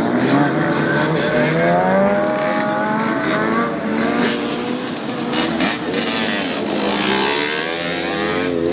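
Several motorcycle engines revving at once, their pitch rising and falling and overlapping.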